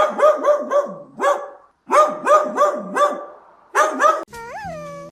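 Dog barking repeatedly, a dozen or so barks in quick runs of two to four. Near the end the barking stops and a short repeating jingle of music begins.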